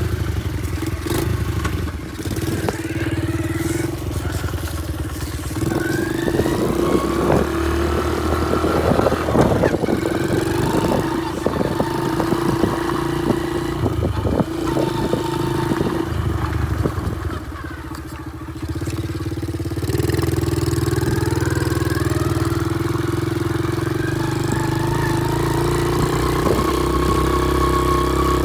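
Small pit-bike engine running steadily, revved up a few times so its pitch rises and falls, easing off briefly about two-thirds of the way through before picking up again.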